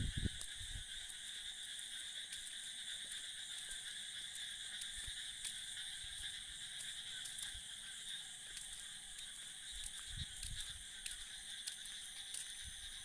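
Steady, unbroken high-pitched chorus of insects chirring, with a few low thumps at the start and again about ten seconds in.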